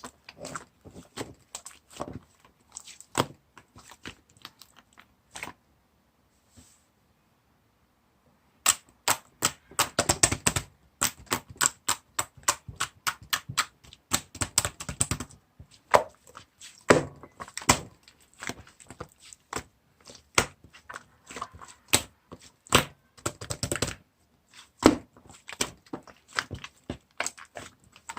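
Chocolate ice cream slime being squished and pressed by hand, making quick, irregular sticky clicks and pops, with a pause of about three seconds near the start.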